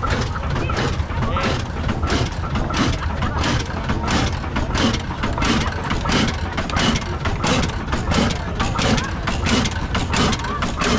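1897 Hornsby-Akroyd hot-bulb oil engine on a traction engine, running steadily with a regular beat of about three knocks a second.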